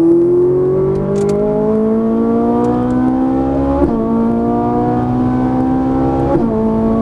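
Ferrari 458 Italia's V8 engine accelerating at full throttle, its pitch climbing steadily. Two quick upshifts, about four and six and a half seconds in, each drop the pitch before it climbs again.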